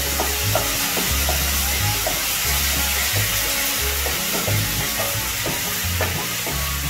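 Spiced onion-garlic masala paste sizzling in oil in a nonstick kadai, stirred and scraped around the pan with a wooden spatula. The masala is being fried down until the oil separates. A low bass beat of background music runs underneath.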